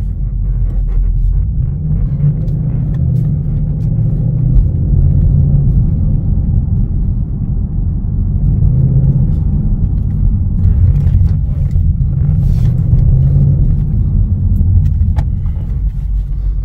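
Ford Mustang sixth-generation V8 heard from inside the cabin, windows shut and exhaust valves closed, as the car is driven with light acceleration. A deep low rumble swells and eases several times.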